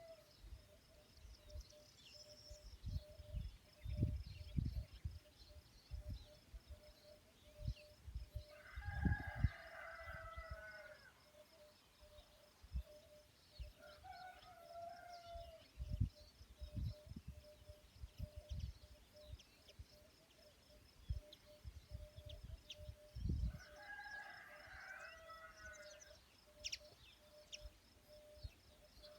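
A rooster crowing, two long crows of about two seconds each, about nine seconds in and again near twenty-four seconds, with a shorter call in between. A steady, fast-pulsing high trill runs underneath, with scattered low thumps and rumbles.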